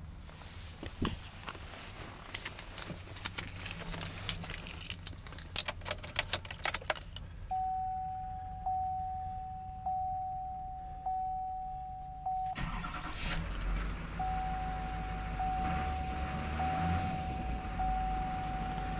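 Keys jangle and rattle, then the truck's warning chime dings about once a second. About twelve seconds in, the Chevrolet Silverado 3500's 6.6-litre Duramax V8 turbo-diesel starts and settles into a steady idle while the chime keeps dinging.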